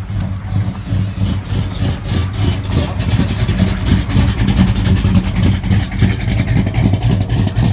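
Car engine running with a deep, rapidly pulsing exhaust rumble, loud and close.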